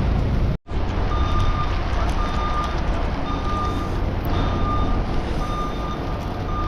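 A vehicle's reversing alarm beeping about once a second, each beep a single steady tone, over a steady low rumble. The sound cuts out for a moment near the start.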